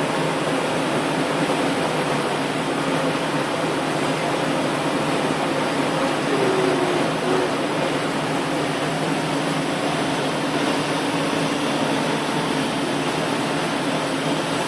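Steady hum and whir of running machinery, like fans and pumps, with a low drone under it.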